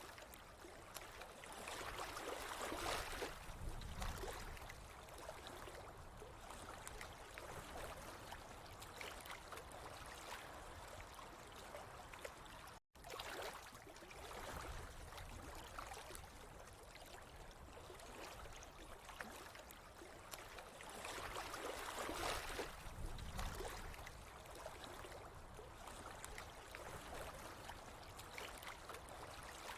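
Water flowing and trickling steadily, swelling louder twice, with a momentary dropout about thirteen seconds in.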